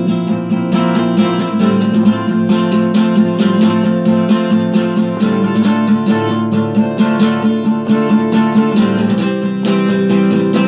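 Acoustic guitar strummed in a steady rhythm, chords changing a few times, with no voice.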